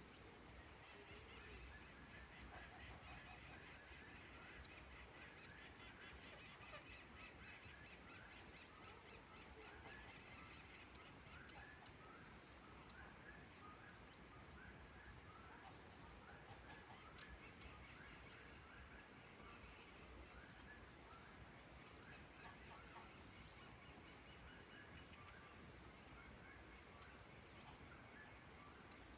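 Faint, distant birds calling: a long run of short calls repeated about one to two times a second, with a thin higher trill early on, over a steady countryside hiss.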